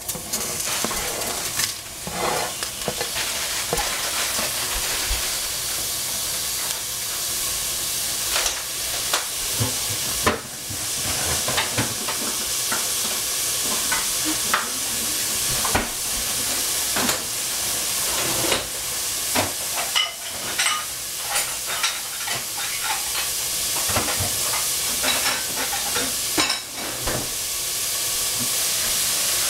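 Green beans and capsicum sizzling in hot oil in a pan, stirred with a spatula that scrapes and knocks against the pan at irregular moments over the steady sizzle.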